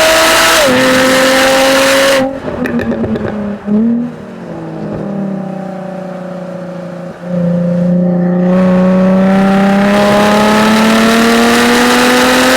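Jaguar F-Type V6 S's supercharged 3.0-litre V6 exhaust under full throttle, pitch climbing, dropping at an upshift under a second in. About two seconds in the throttle closes: crackles and pops on the overrun with blipped downshifts, a quieter stretch off throttle, then back on the power with the note rising steadily to near the end.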